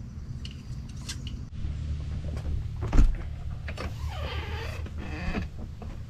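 Rumble of a hand-held camera being handled and carried, with a loud knock about three seconds in, then a drawn-out squeak that wavers up and down in pitch for about a second and a half.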